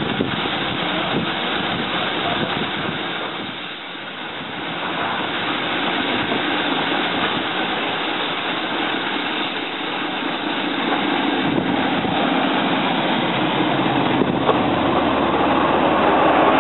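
Steady running noise of a train on the move. An oncoming diesel locomotive's engine drone builds from about two-thirds of the way through and grows louder as the locomotive draws alongside and passes close by.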